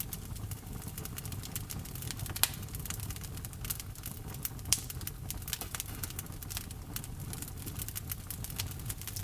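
Wood log fire crackling in a fireplace: a dense run of small irregular pops and snaps over a low steady rumble, with two louder snaps about two and a half seconds in and just before five seconds in.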